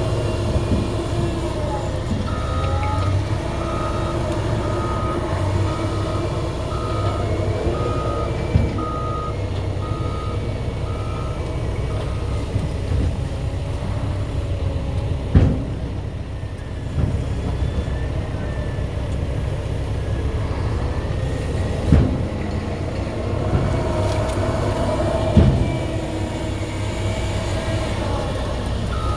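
CAT 120M2 motor grader's diesel engine running steadily under load, with a backup alarm beeping about once a second for the first ten seconds or so. A few sharp clanks stand out over the engine, about a quarter, half and three-quarters of the way through.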